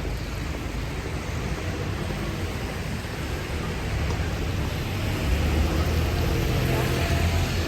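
Steady hiss of rain falling on a city street, with traffic noise underneath. A vehicle's low engine rumble grows louder about five seconds in.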